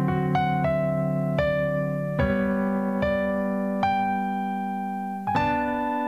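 Piano music: held chords with a new note or chord struck about every second.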